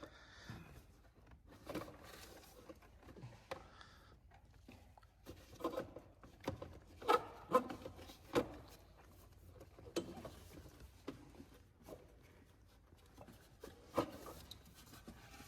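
Hand work on the plastic air filter housing of a BMW X5 engine bay: scattered knocks, clicks and rubbing as the housing is pushed and worked onto crushed rubber mounts. The loudest are a few clunks about seven to eight and a half seconds in and one near fourteen seconds.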